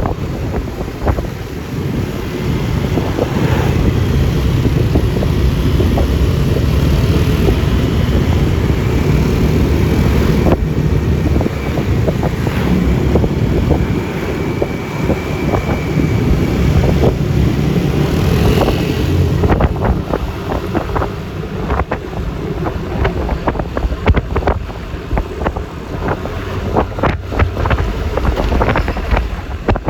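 Wind buffeting the microphone over a Yamaha Lexi LX 155 scooter's single-cylinder engine running and tyre and road noise while riding. Many short clicks and knocks come through in the latter part.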